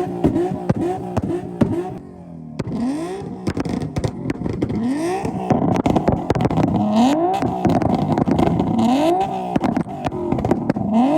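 Nissan VQ V6 engine revving in repeated blips: quick revs about twice a second at first, then after a short lull about two seconds in, longer rising revs every two seconds or so. Sharp exhaust pops and cracks run throughout.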